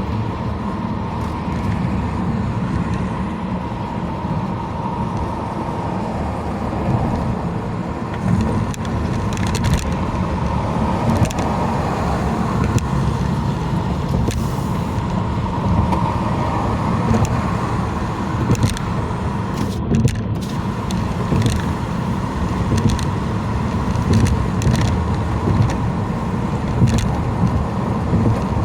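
Steady road noise of a car being driven, with tyre rumble and engine hum and a few faint brief ticks.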